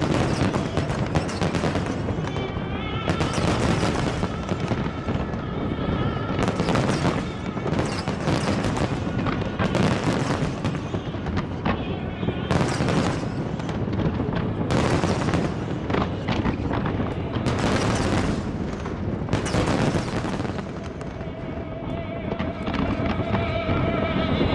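Aerial fireworks display: a dense, continuous barrage of booming and crackling shell bursts, with a few held tones heard now and then beneath them.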